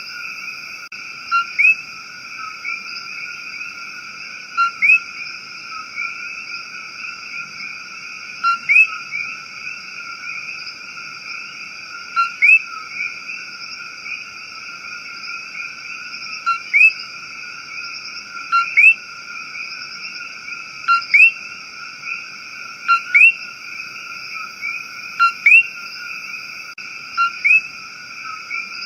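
Rainforest ambience: a steady, high chorus of calling frogs, with a short, sharp call repeating about every two seconds, often two in quick succession.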